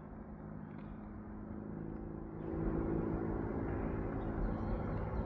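Motor vehicle traffic running steadily, with an engine hum that grows louder about two and a half seconds in as a vehicle draws closer.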